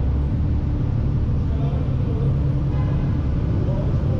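Steady low rumble of a motorcycle on the road, with faint voices in the background.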